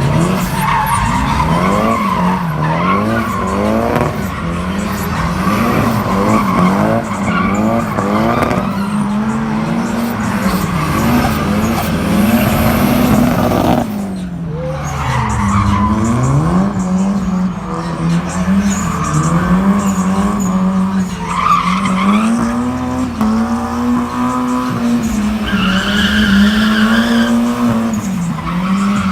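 Car engine revving hard, its pitch rising and falling over and over, with tyres screeching.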